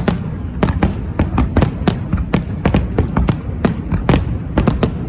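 Fireworks display: a rapid, irregular barrage of shell bursts, about four sharp bangs a second, over a continuous low rumble.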